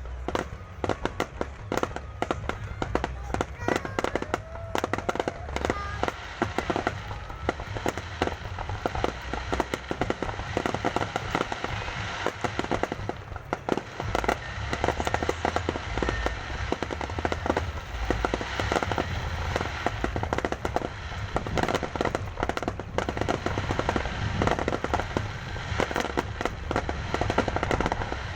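Fireworks going off without a break: a dense, continuous stream of sharp bangs and crackles.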